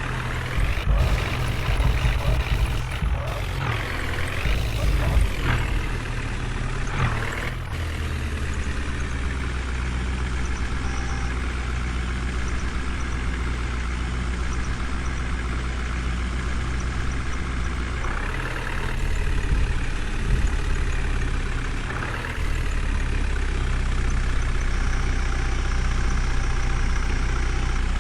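Heavy diesel engine running steadily at low revs, rising briefly in pitch several times as it is revved.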